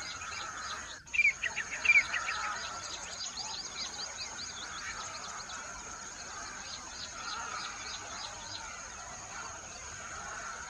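Several small birds chirping repeatedly, with a louder run of quick chirps just after a brief drop-out about a second in, over a steady high-pitched hiss.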